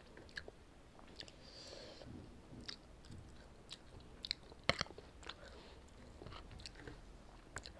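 Close-miked chewing of instant noodles topped with crunchy fried shallots: faint wet mouth clicks and soft crunches at an uneven pace, with a sharper crunch a little past halfway.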